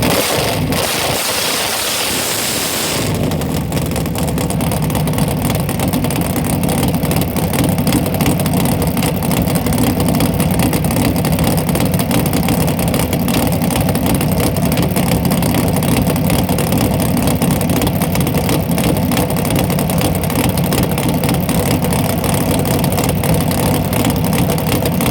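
A loud drag car engine idling steadily with a fast, rough beat. A loud hiss dominates for about the first three seconds.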